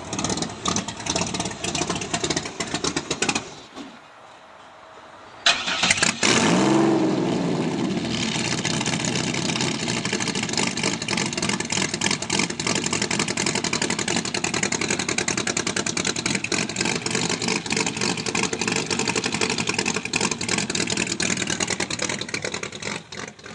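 Supercharged V6 engine of a Pontiac Firebird drag car starting with a sudden burst about five and a half seconds in, after a short lull, revving up and falling back once, then settling into a steady idle.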